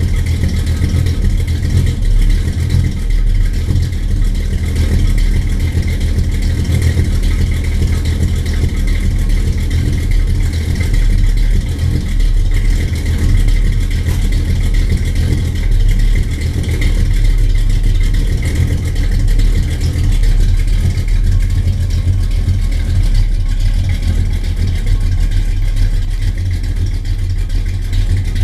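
Car engine running steadily, a deep low drone that holds the same pitch throughout with no revving.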